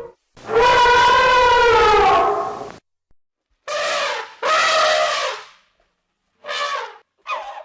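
Elephant trumpeting in a series of separate calls: one long blast of about two and a half seconds, two shorter ones back to back, a brief one, and another starting near the end, with dead silence between them.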